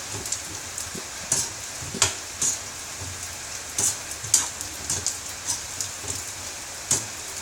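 Beef meatballs deep-frying in hot oil in a pan: a steady sizzle with irregular crackles and pops of spattering oil.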